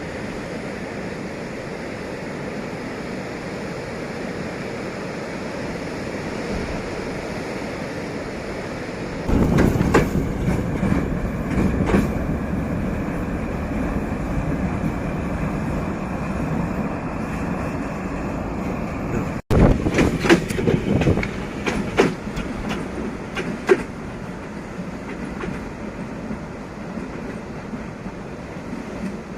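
D11H diesel-hydraulic locomotive running, at first a steady rumble. About a third of the way in it gets suddenly louder as it passes close, with its wheels clacking over rail joints. The sound cuts off abruptly for an instant past the middle, then a second run of wheel clacks follows and fades.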